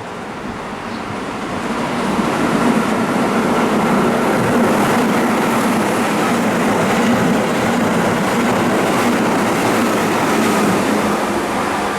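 Keihan electric train running on the line at the station, its running noise with a steady motor hum building over the first couple of seconds and then holding steady.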